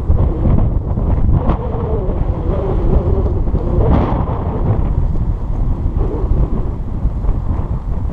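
Strong, gusty wind buffeting the microphone in a loud, steady rumble. A faint whine dips and then rises in pitch for a couple of seconds early in the stretch.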